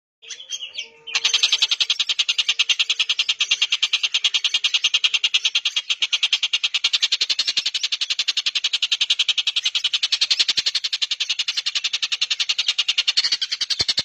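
A caged bird's call, a few short notes and then a long, fast, harsh chattering rattle of rapidly repeated notes that keeps going without a break.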